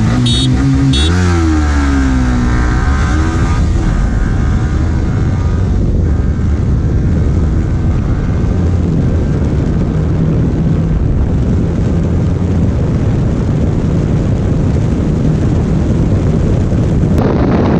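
Yamaha R15 V3's 155 cc single-cylinder engine accelerating hard under full throttle, its note dipping and climbing through gear changes in the first few seconds. After that, heavy wind rush on the microphone at highway speed mostly buries the engine.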